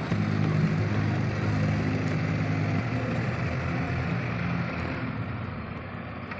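Heavy diesel engine running steadily under earthmoving work, growing fainter over the last couple of seconds.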